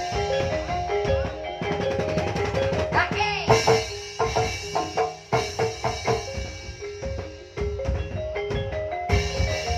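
Javanese gamelan-style music from Banyumas: mallet-struck instruments play a stepped melody over a busy pattern of drum strokes.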